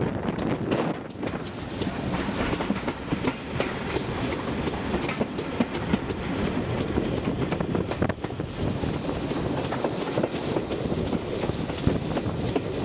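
Steam-hauled heritage train running along the line, heard from an open carriage window: a steady rumble of the carriages with the wheels clattering over the rail joints.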